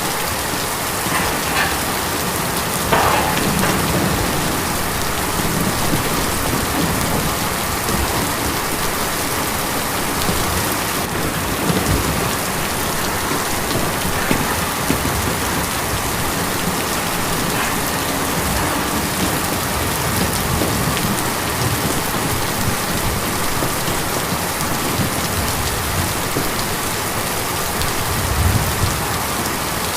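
Steady rain falling on a tin roof, an even hiss with a few louder drops near the start. A brief low rumble comes near the end.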